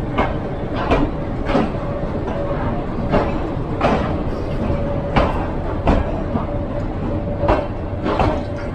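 Metre-gauge train coaches rolling into the platform over a steady rumble. The wheels clack over a rail joint in pairs of strikes a little under a second apart, a pair every couple of seconds, with a faint steady whine underneath.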